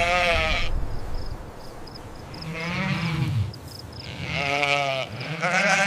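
Sheep bleating, about four wavering calls one after another, one of them lower and deeper than the rest.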